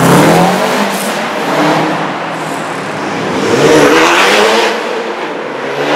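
Subaru Impreza WRX's turbocharged flat-four accelerating hard, rising in pitch, dropping at gear changes and rising again, echoing off the tunnel walls. It is loudest at the start and swells again about four seconds in.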